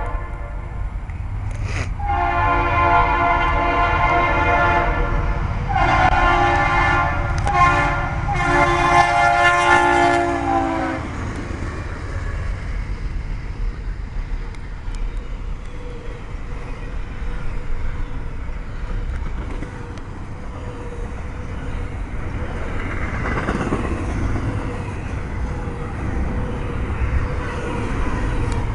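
Norfolk Southern freight locomotive's air horn sounding a chord in four blasts over the first ten seconds or so, then stopping, leaving the steady rumble of the freight train's wheels rolling past on the rails.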